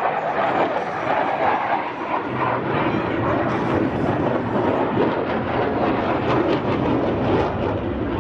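Jet noise from F/A-18 Super Hornet fighters flying past, a loud continuous rushing roar of their afterburning turbofans with no breaks.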